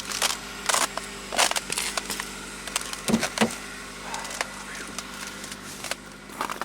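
Footsteps crunching on hard-frozen snow and ice, about one step every half to three-quarters of a second, over the steady hum of an engine idling.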